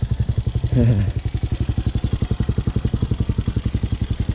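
Motorcycle engine running steadily at low revs with an even, rapid pulse, the bike creeping through a tight turn at walking pace.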